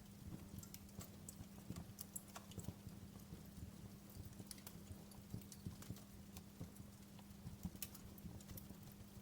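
Wood fire in a fireplace crackling: irregular, quick snaps and pops, several a second, over a low steady hum.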